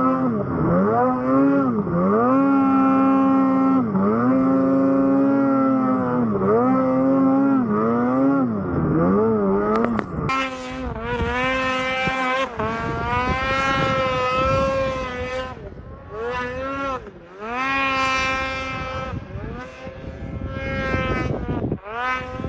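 Snowmobile engine revving up and down over and over as it is ridden, the pitch rising and falling about every two seconds. About ten seconds in there is a sharp click, and after it the engine sounds brighter and swings more widely, easing off twice for a moment near the end.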